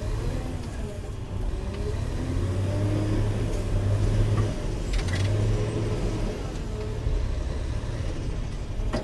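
Caterpillar 120K motor grader's diesel engine running under work, a steady low drone with a pitched tone that wavers up and down.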